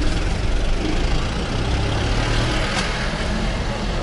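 Strong wind buffeting the microphone: a steady low rumble under a hiss.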